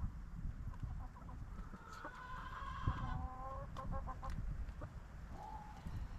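Chickens calling: a drawn-out call about two seconds in, then a few short clucks, over a steady low rumble.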